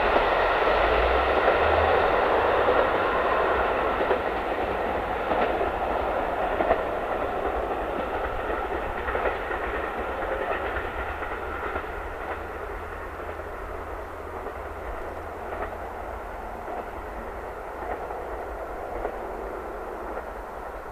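A train running past on the rails and moving away, its wheels clacking over rail joints; the rumble is loudest at first and fades steadily as it recedes.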